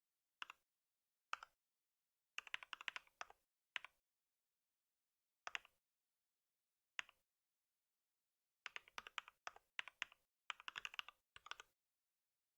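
Typing on a computer keyboard: several single keystrokes, then short runs of quick key presses, with dead silence in between.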